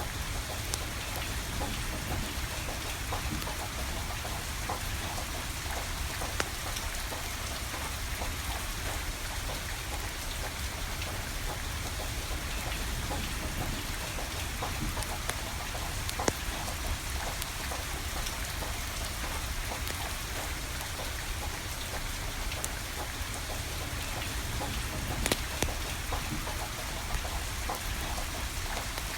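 Steady rain falling, with the scattered sharp pops and crackles of a burning wood fire; a few louder pops stand out about 6, 16 and 25 seconds in.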